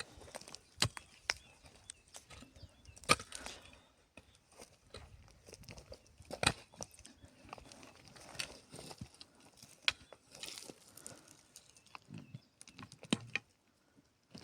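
Irregular sharp knocks and clicks over a faint hiss, the loudest about three and six and a half seconds in.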